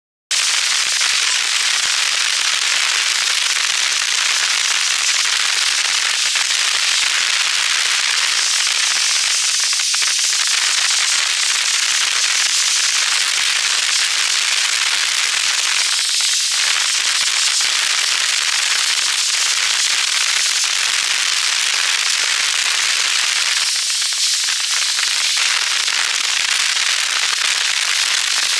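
Rain falling on a moving car's roof and windows: a loud, steady crackling hiss, strong in the highs and thin in the lows, that starts abruptly just after the start.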